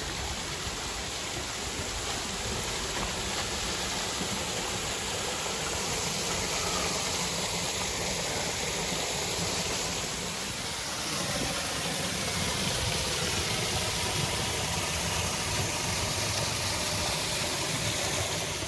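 Small waterfall falling onto a creek, a steady rush of water.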